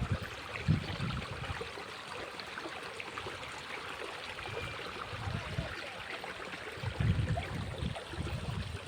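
Small stream flowing, water trickling steadily, with a few brief low rumbles.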